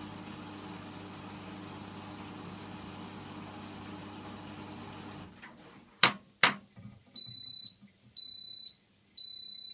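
Hotpoint washing machine's motor running with a steady hum, which stops about five seconds in, followed by two sharp clicks. Then the machine beeps three times in a high tone, two short beeps and a longer one: the end-of-cycle signal that the wash has finished.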